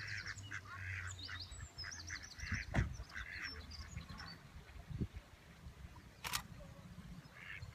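Ducks quacking in a run of short calls, about two a second, that die away after about three seconds, with one sharp click about six seconds in.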